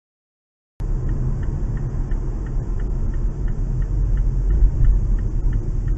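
Steady low rumble of a car on the move, engine and road noise as picked up by a dashcam, cutting in suddenly about a second in after dead silence. Faint regular ticking runs through it, about three times a second.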